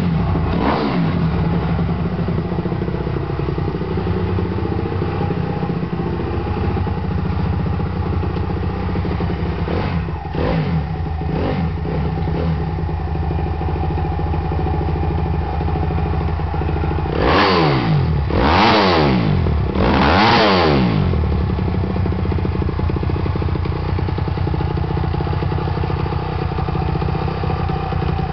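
Honda Gorilla's single-cylinder four-stroke engine, fitted with a Takegawa Super Head and a Kitaco lightweight outer rotor, idling steadily just after starting. It is blipped lightly a few times and, a little past halfway, revved up and back three times in quick succession before settling back to idle.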